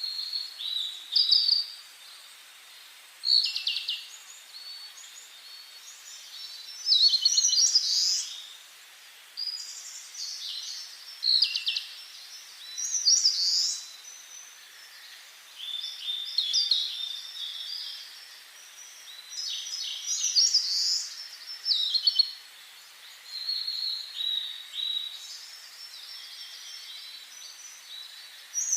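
Songbirds singing in short, high-pitched phrases that recur every few seconds, over a faint steady hiss.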